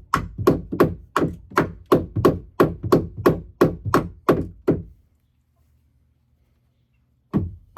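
Hammer blows on a wooden roost perch, brisk and even at about three a second, about fourteen strikes in all. They stop about five seconds in, and a single blow follows near the end.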